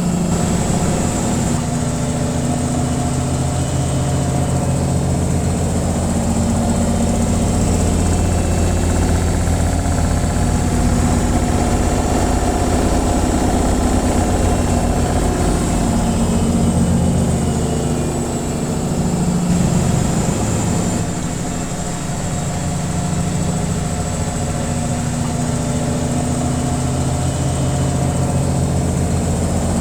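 Washing machine running its spin cycle: a steady low motor hum and drum rumble, with a brief dip about two-thirds of the way through.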